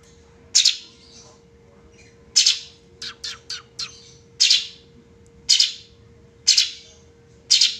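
Cucak cungkok songbird giving loud, harsh calls about once a second, six in all, with a quick run of four short notes in the middle.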